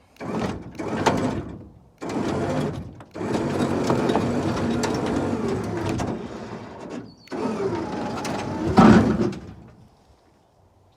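Winch hauling the deck and rear axle of a 1978 Ford dually onto a trailer in four pulls, the load dragging and scraping with a grinding, creaking noise, the loudest scrape near the end of the last pull. Something else is touching and rubbing as it comes in.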